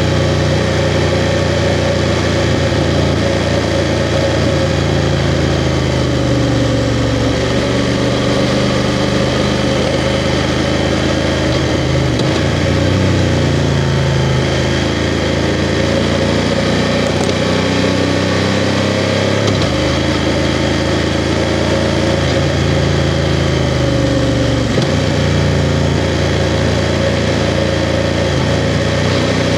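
BMW F 750 GS's parallel-twin engine running under way, its note falling and rising with the throttle, with three sudden breaks in the note.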